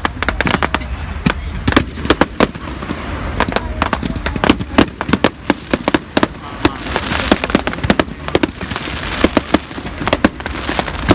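Fireworks display: a rapid, irregular string of sharp bangs and pops, with stretches of crackling about seven and nine seconds in.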